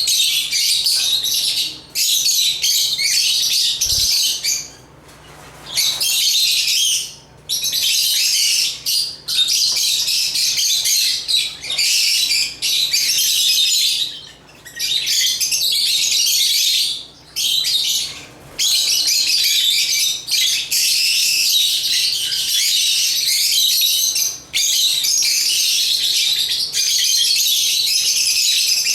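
Lovebirds (Agapornis) chattering: dense, high-pitched chirping and squawking in bursts of one to three seconds with short pauses between.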